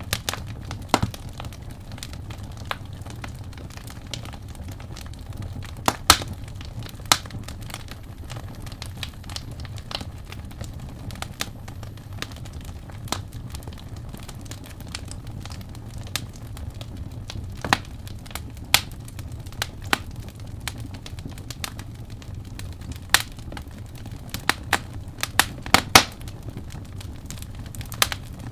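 Wood fire burning with a low steady rumble and irregular sharp crackles and pops, which come in a quick cluster near the end.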